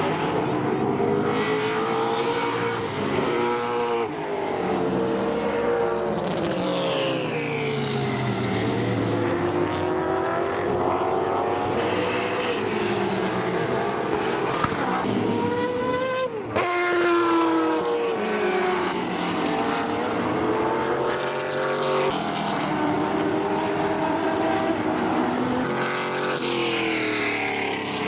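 Sports sedan race cars running hard past, one after another, several engines overlapping. Their pitch keeps rising and falling as the cars change gear and go by.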